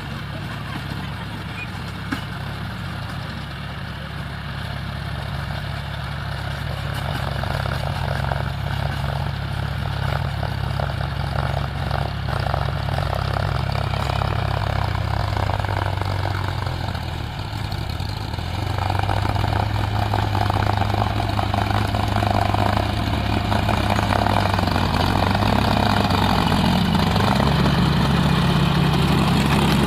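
John Deere 5050 D tractor's three-cylinder 2900 cc diesel engine running steadily, getting louder, with its engine note changing about two-thirds of the way through and rising in pitch near the end.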